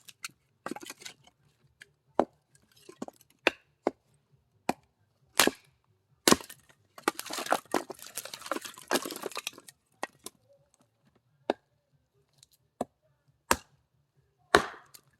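Axe blows splitting firewood: about a dozen sharp cracks at irregular intervals, with a few seconds of denser clattering noise in the middle.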